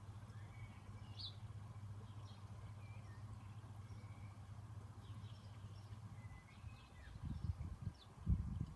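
Faint birdsong, short chirps and whistles, over a steady low hum. Low rumbling bumps come in near the end and are the loudest sound.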